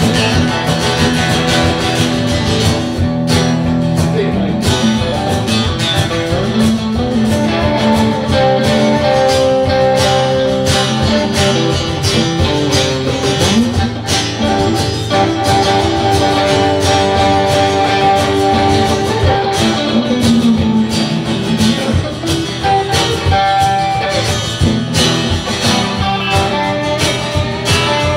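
Live band playing an instrumental break between verses: strummed guitar carrying the rhythm, with a melody line of long held notes through the middle.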